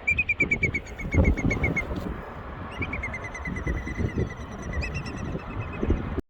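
A nesting bird giving rapid runs of sharp, repeated alarm calls, about ten a second, in three bursts of a second or two each, over a low rumble. These are the calls of a bird defending its nest against an intruder close by.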